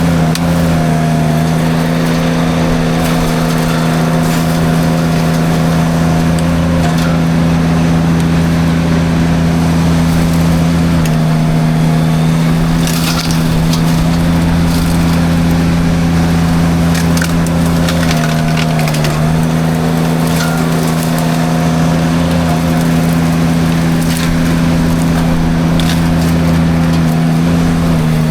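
Derette V1000 mini skid steer running a forestry mulcher drum at steady high speed, with wood cracking and splintering as the drum chews through brush. The steady machine hum sags briefly twice.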